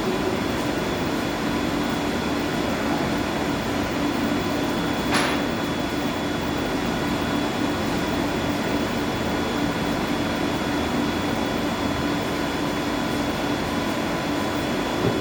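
Steady loud drone of boiler-house machinery, pumps and fans running, with a constant low hum. A single short sharp click about five seconds in.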